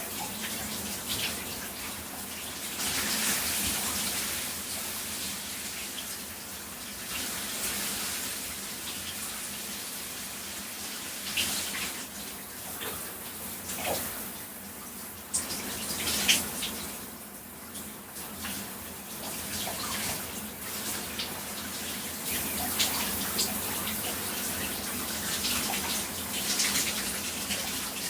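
Shower spray running over a person's body, a steady hiss of falling water that swells and dips as the spray is broken, with a few brief sharp splashes.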